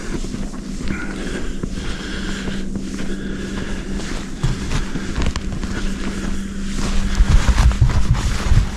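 Wind buffeting the microphone, with footsteps in snow, heavier gusts near the end, and a steady low hum throughout.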